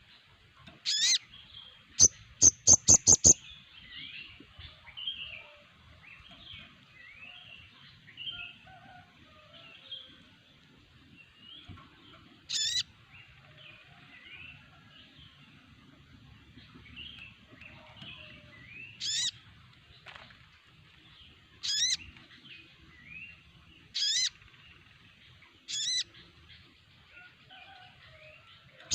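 A flock of sogon birds twittering together, with loud sharp rising calls standing out every few seconds and a rapid run of loud clicking notes about two seconds in.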